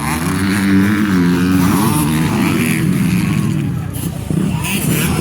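Motocross bike engines revving, their pitch rising and falling as the riders work the throttle and gears.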